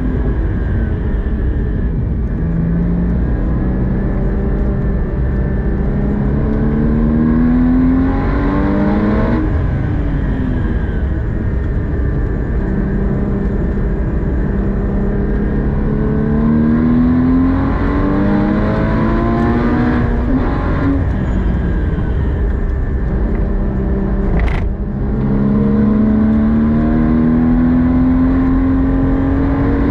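Porsche 981 Cayman GT4's 3.8-litre flat-six heard from inside the cabin at track speed, its pitch climbing in long sweeps and dropping back several times as the car accelerates through the gears and slows for corners. A steady low rumble of road and tyre noise runs underneath, and a single sharp click sounds about two-thirds through.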